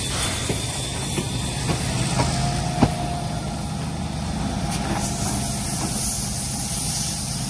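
Train pulling out of the station: a steady rumble with hiss and a few light clicks, and one sharp knock about three seconds in.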